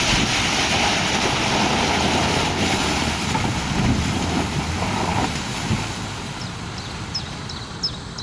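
Land Rover Defender engine running as the vehicle pulls away through muddy ruts, fading as it drives off from about five seconds in. A few short high chirps, a bird, come near the end.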